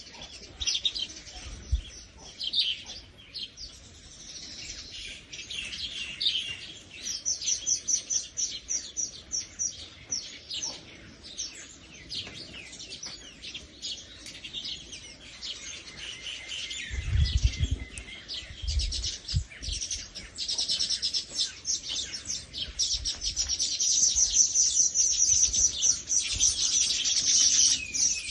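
Birds chirping busily, with rapid, overlapping high chirps that grow denser and louder near the end. A few low thumps come about two-thirds of the way through.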